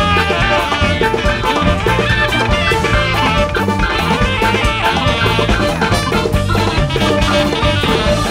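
Live music from a large jazz band playing together at full volume: horns, drums and guitar over a steady beat.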